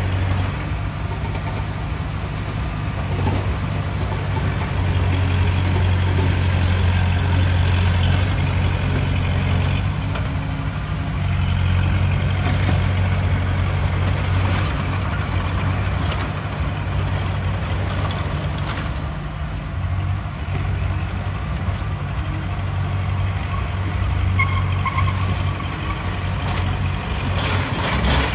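Heavy diesel engine of earthmoving machinery running under load, swelling and easing in long stretches, with a few sharp knocks.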